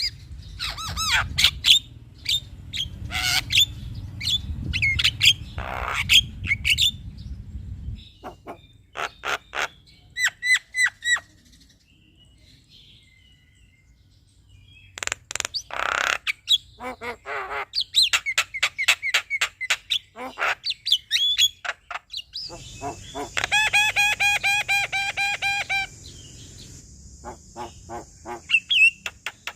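Male Javan myna singing: sharp whistled calls and chattering notes, a short pause about halfway, then a rapid string of repeated ringing notes lasting about three seconds. A low rumble sits under the first part.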